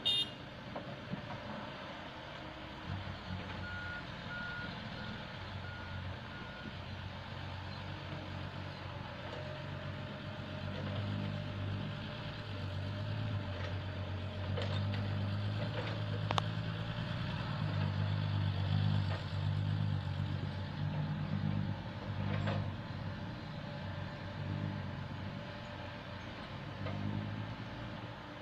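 Diesel engine of a Komatsu PC70 tracked excavator working, rising and falling under load, louder through the middle. A reversing alarm beeps about six times early on, and a few sharp knocks come later.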